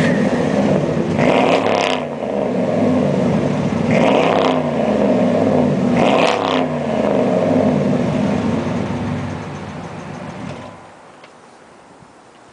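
A 2004 Dodge Ram's 5.7-litre Hemi V8 with Flowmaster mufflers, freshly started and revved three times, each rev rising and falling back. The engine then eases down, and its sound drops away suddenly about eleven seconds in.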